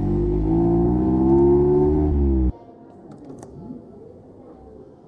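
Mazda MX-5's 1.5-litre four-cylinder engine running at low speed with a slight rise and fall in pitch, then switched off, cutting out abruptly about two and a half seconds in. A faint click follows in the quiet.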